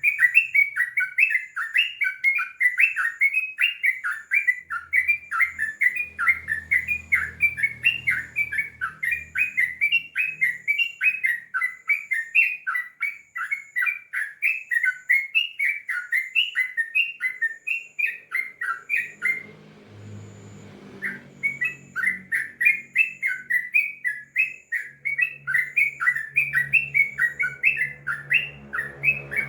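Yellow-vented bulbul (trucukan) singing a long, unbroken run of rapid repeated chirping notes, several a second. The song breaks off for about a second and a half roughly two-thirds of the way through, then resumes.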